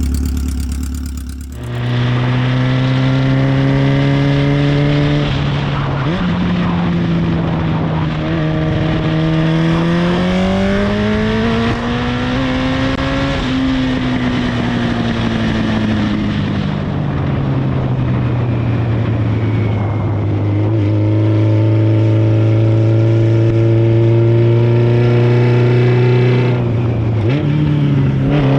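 Straight-piped 1993 Honda Nighthawk CB750 air-cooled inline-four running at idle on a cold start with a little choke. After a brief drop in the first two seconds, the idle climbs slowly over several seconds, sinks back and holds steady, then picks up again near the end.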